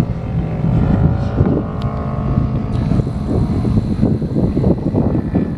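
Motorcycle engines running on a racetrack, their pitch slowly rising, with a higher whine joining about halfway through and wind buffeting the microphone.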